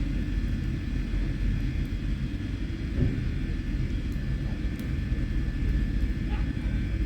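Steady low rumble with a few faint crackles.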